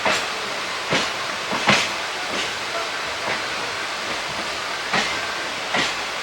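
An ICF passenger coach running along the track: a steady rushing noise with sharp clacks at uneven intervals as the wheels pass over rail joints.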